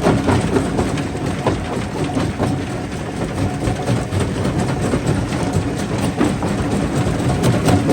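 Stone crusher running and crushing rock: a steady heavy rumble with a continuous irregular clatter of stones.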